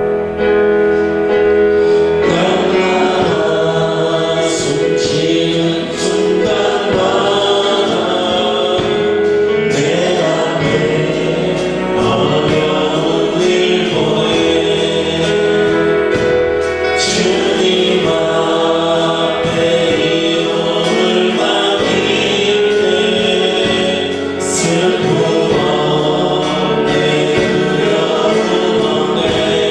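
Congregation singing a Korean worship song together with a live band, with a steady beat.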